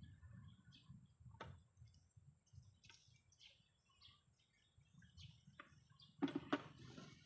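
Small birds chirping faintly, with scattered short calls. Two sharp knocks come about six seconds in, the loudest sounds.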